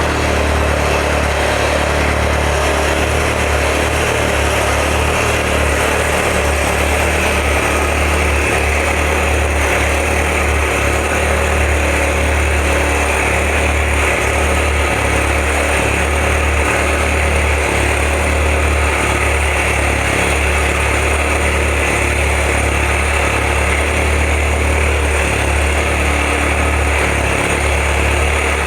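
Citroën DS3's turbocharged 1.6 THP four-cylinder engine with a Scorpion aftermarket exhaust, idling steadily just after a cold start.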